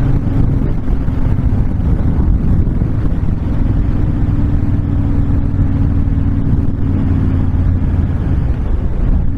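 Honda VTX1300 V-twin cruiser motorcycle running steadily at highway speed, its engine note mixed with heavy wind noise on the microphone.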